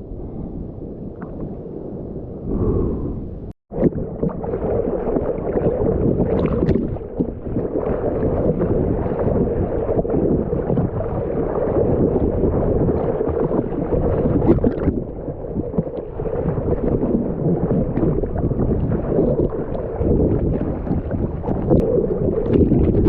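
Ocean water sloshing and splashing against the camera as a swimmer moves through the surf. The sound cuts out for a moment about three and a half seconds in, then comes back louder.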